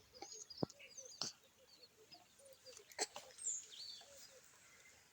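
Faint birdsong: several birds chirping and calling in short, scattered notes. Three sharp clicks stand out, the loudest about three seconds in.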